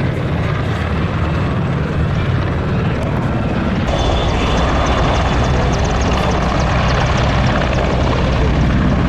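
Military helicopter flying past with a steady low engine and rotor sound. About four seconds in it grows brighter, with a thin high whine and a fine rapid beat coming in on top.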